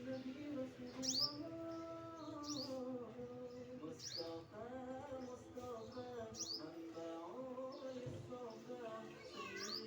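Short high chirps, each sweeping quickly down in pitch, about five of them spaced a second or two apart, from a small bird. Music with singing plays underneath.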